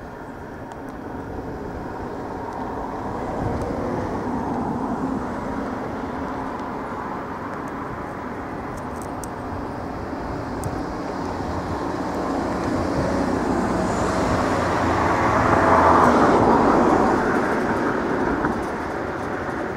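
A train runs past with a rolling rumble that builds gradually, is loudest a few seconds before the end, then drops away.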